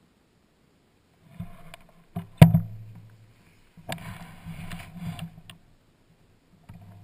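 KTM 350 EXC-F's single-cylinder four-stroke engine being cold-started in freezing weather. It gives several short, uneven bursts of turning over and firing, with one sharp loud bang about two and a half seconds in. Near the end it catches and settles into a steady idle.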